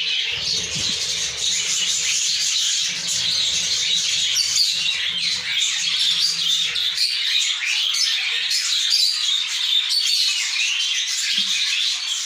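Budgerigars chirping constantly, many short high calls overlapping in a dense chatter, with a low hum under the first half.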